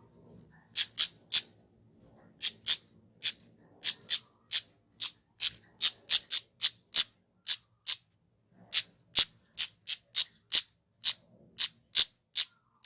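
A flowerpecker (kemade) giving a long series of short, sharp, high-pitched 'tsit' call notes, about two a second at an uneven pace, some coming in quick runs of two or three.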